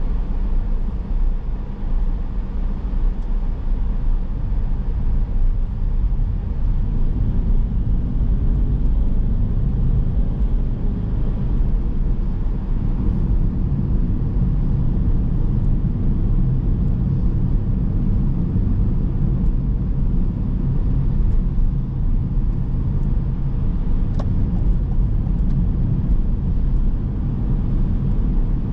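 A car driving: steady low rumble of engine and tyre noise, with a faint click near the end.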